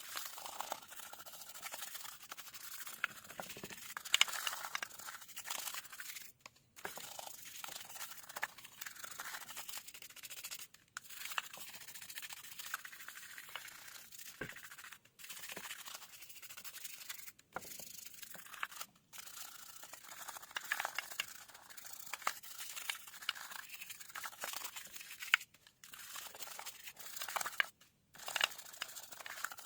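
Scratching and scraping noises in short, irregular strokes, broken several times by abrupt cuts to silence.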